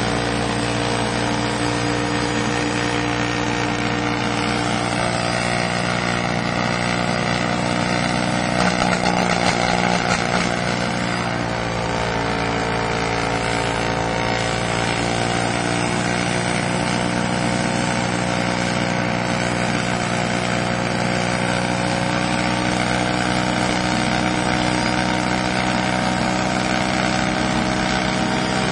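Mazda rotary engine idling steadily, with a short rise in revs about eight to ten seconds in that dips briefly before settling back to a steady idle.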